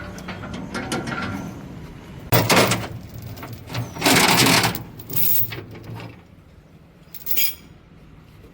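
Heavy machinery during a crane lift: a low engine hum with several short, loud bursts of harsh noise, the loudest about two and a half and four seconds in; the hum fades out a little after six seconds.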